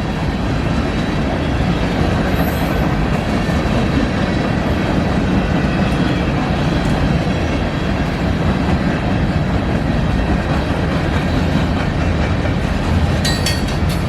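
Freight cars of a manifest train rolling past, a steady loud rumble of steel wheels on rail. A brief high metallic squeal and clanks come near the end.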